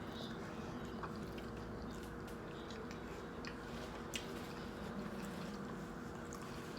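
Faint wet clicks and squishes of someone chewing a sandwich, over a steady low hum.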